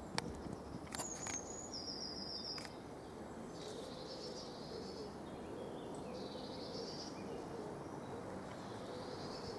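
Outdoor ambience with a steady hiss, through which a small bird sings short, high trilling phrases several times. A few light knocks sound in the first three seconds.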